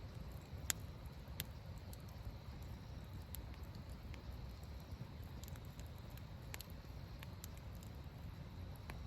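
Wood fire crackling in a fire pit: scattered sharp pops and ticks, the two loudest in the first second and a half, over a steady low rumble.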